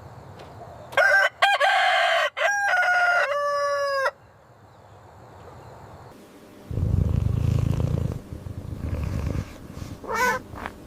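A rooster crows once, a cock-a-doodle-doo of about three seconds beginning about a second in and ending on a long held note. From about seven seconds in, a low purring rumble follows, with two short higher calls near the end.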